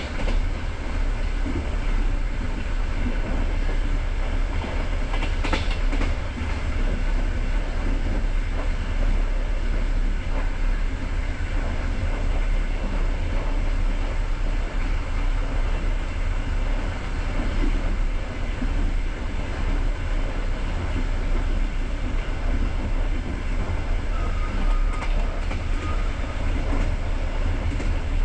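Passenger train running along the line, heard from inside the coach: a steady rumble of wheels on rails with some clickety-clack over the rail joints.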